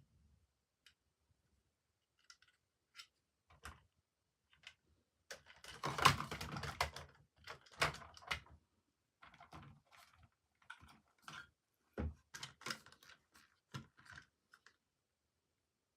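Plastic toys and packaging being handled: irregular small clicks and taps, with a denser clatter about six seconds in.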